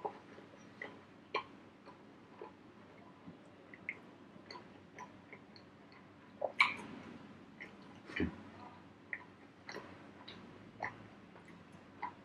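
A person chewing food with the mouth closed, up close: soft, irregular wet clicks and smacks, with two louder ones about six and a half and eight seconds in.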